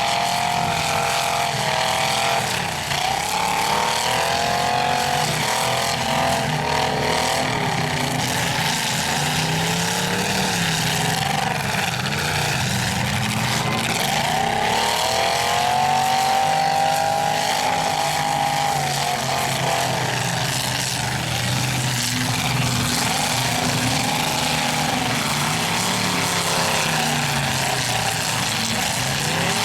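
Several demolition derby stock trucks running and revving hard, their engine pitch rising and falling in long sweeps as they push and ram one another.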